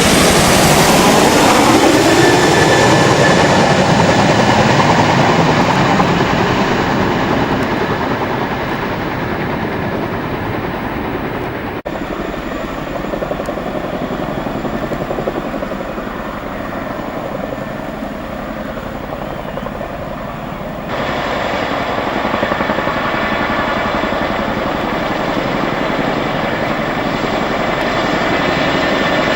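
CH-47 Chinook tandem-rotor helicopter flying past: its rotor and turbine noise drops in pitch as it passes in the first few seconds, then fades. The sound changes abruptly twice and grows louder again near the end as a helicopter comes closer.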